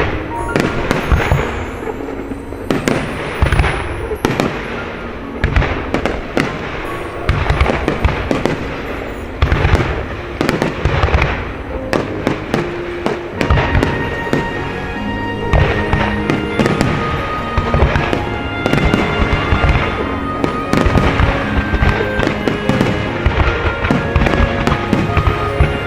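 Aerial fireworks bursting in rapid, irregular succession, with many sharp bangs and echoing booms, over a music track whose held notes come through more clearly in the second half.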